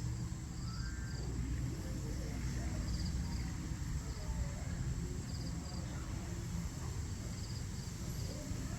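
Outdoor dawn ambience: short pulsed chirps repeating every second or two over a steady low rumble and a faint, steady high tone.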